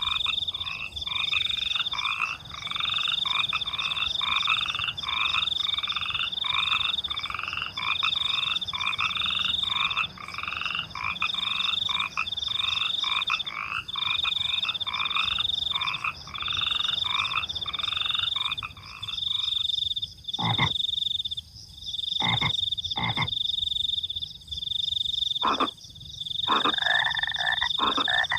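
Frogs croaking in a chorus of quick repeated calls, about two a second, over a high, steady trill of crickets. The frogs fall silent about two-thirds of the way through, leaving the cricket trill and a few sharp clicks.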